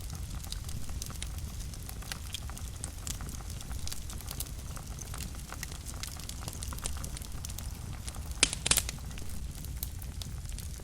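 Fire burning in a fireplace: a steady low rumble of flames with frequent small crackles, and a louder burst of pops about eight and a half seconds in.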